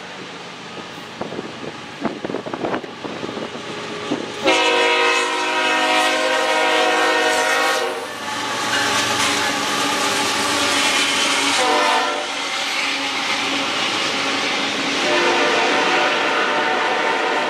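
Diesel freight locomotive horn sounding a multi-note chord in long blasts: one starts about four seconds in and holds to about twelve seconds, dropping in pitch near its end, and another comes near the end. Underneath are the rumble and clatter of the train on the rails, with wind on the microphone early on.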